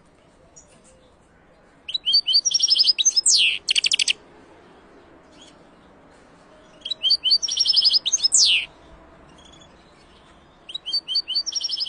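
A songbird singing three short phrases a few seconds apart. Each phrase is high-pitched: a run of quick notes, then a note sweeping downward, then a fast trill. The last phrase is cut off.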